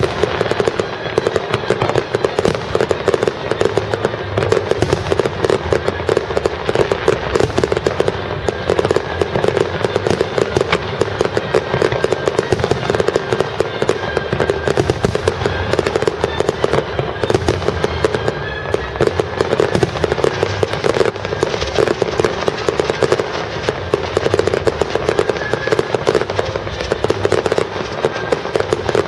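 Fireworks display going off in a continuous dense barrage of bursts and crackling, with no pause.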